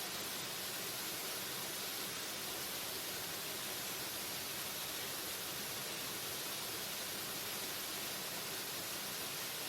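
Waterfall: a steady, unbroken rush of falling water, even throughout and weighted toward the high end.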